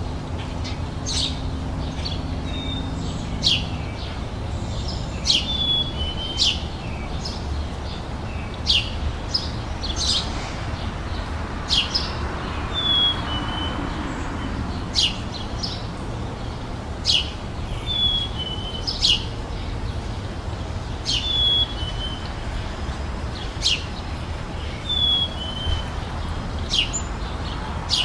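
Birds chirping: short, sharp high calls repeated every second or two, many followed by a short falling note, over a steady low rumble of background noise.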